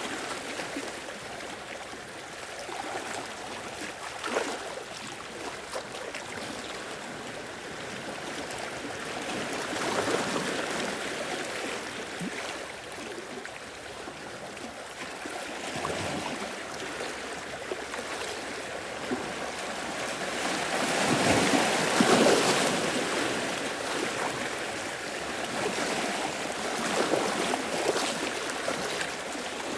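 Sea waves washing in and out at the shore, swelling every few seconds, loudest a little over two-thirds of the way in.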